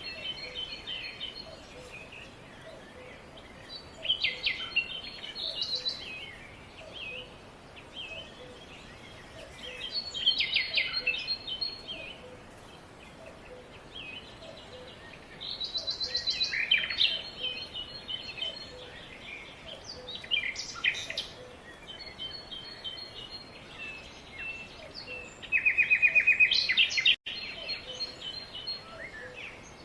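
Songbirds singing in bursts of quick trills and chirps every few seconds over a steady background hiss of outdoor ambience, with a momentary dropout near the end.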